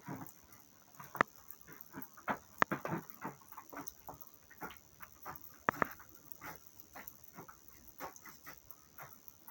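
A small dog barking in short, irregular yaps, several times over, with sharper ones about a second in, near three seconds and near six seconds.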